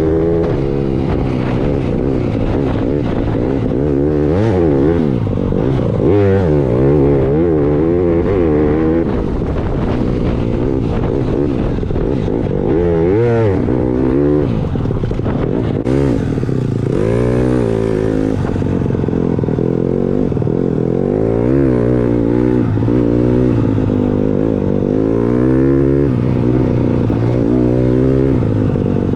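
Dirt bike engine running under load, its revs rising and falling over and over as the rider works the throttle and gears.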